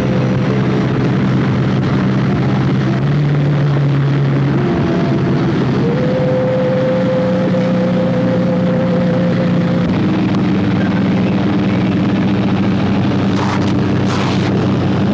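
Car engines running steadily at speed on a race circuit: a continuous drone whose pitch shifts a few times as revs change, with a couple of brief clicks near the end.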